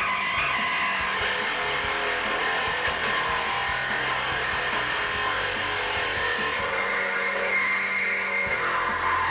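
Reciprocating saw cutting through a metal exhaust pipe, running steadily without a break.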